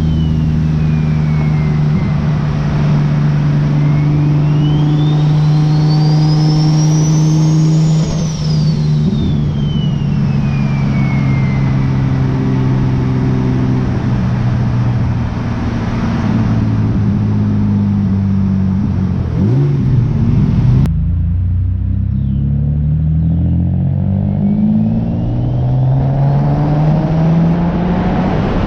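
Single-turbo Nissan 370Z's VQ37VHR V6 driving. The engine runs at a steady pitch while a high turbo whistle rises and falls over several seconds. The sound changes abruptly about 21 seconds in, and then the engine revs up with rising pitch under acceleration.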